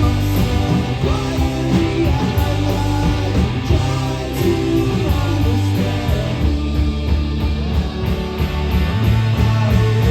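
A rock band playing live: electric guitars, bass and drums, with singing.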